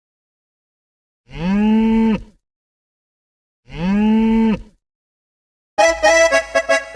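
Cow mooing twice, each moo about a second long, rising then held and dropping off at the end. Lively music starts near the end.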